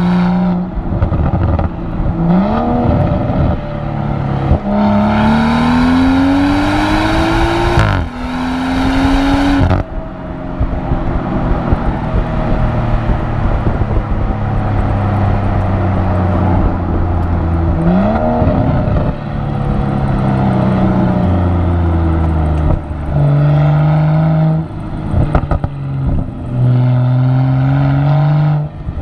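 BMW X4 M40i's turbocharged 3.0-litre straight-six engine and exhaust accelerating through the gears: the revs climb and drop sharply at each upshift. Then follows a stretch of steady, slowly falling revs, a quick rise, and more short pulls with shifts near the end.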